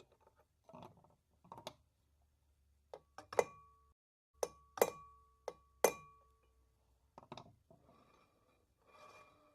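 Hard metal pieces clinking together: about seven sharp strikes, most of them ringing on at the same few clear pitches like a struck metal part, then a short rattling scrape near the end.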